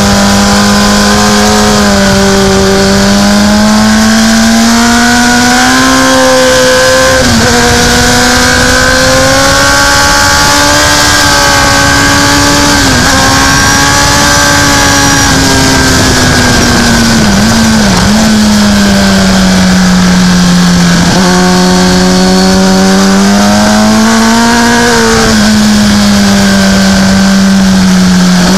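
Motorcycle engine at high revs heard from an onboard camera on a race track, with heavy wind hiss on the microphone. The engine pitch rises and falls through the corners, with several brief sharp dips.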